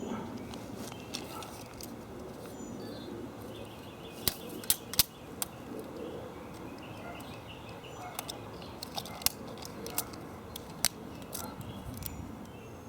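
Scattered sharp clicks and taps, a few much louder than the rest, from thin aluminum flashing being handled and marked out. Faint bird chirps can be heard through a steady outdoor background.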